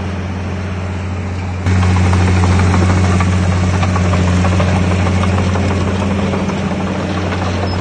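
Heavy diesel earthmoving machinery running with a steady low engine hum and clatter, jumping abruptly louder about two seconds in.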